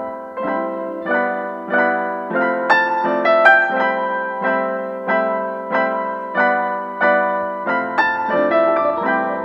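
Background music: piano notes and chords struck at a steady, even pace, each dying away before the next.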